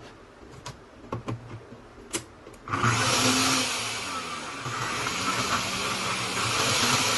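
A few clicks as the Nutribullet blender's cup is fitted onto the base, then about three seconds in its motor starts abruptly and runs at full speed with a loud, steady whir, easing a little in the middle and picking up again near the end: a test run of the repaired motor.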